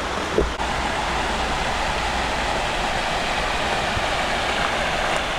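River Greta rushing steadily, an even noise of flowing water, with a low rumble underneath and a brief knock about half a second in.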